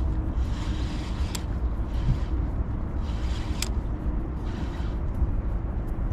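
Wind buffeting the microphone in a low, gusty rumble, with a light hiss of rain and a couple of sharp ticks.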